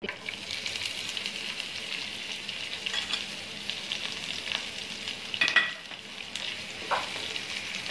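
Chopped onions sizzling in hot oil in a frying pan, just tipped in on top of whole spices, with a steady hiss and a few sharp clicks, the loudest about five and a half seconds in.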